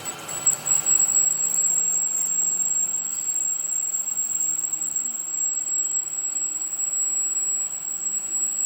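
Workshop machine tool running on metal, giving a steady high-pitched squeal over a mechanical hiss.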